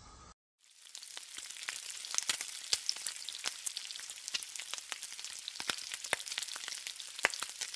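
Food frying on a hot flat-top griddle: a steady sizzle dotted with many sharp crackles and pops, starting about half a second in.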